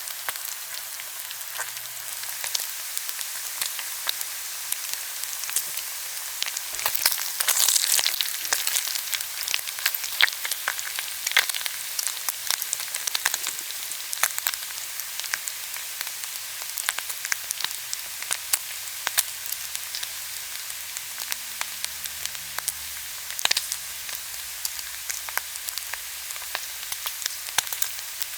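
Pork belly sizzling and spitting as it grills, a steady high hiss studded with constant sharp pops of fat, with a denser burst of crackling about seven seconds in.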